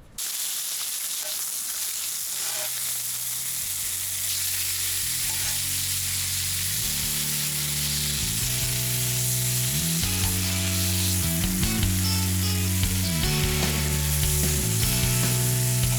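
Food frying in a hot pan, a loud steady sizzle that starts suddenly. Background music with a slow bass line fades in after a few seconds and grows louder over it.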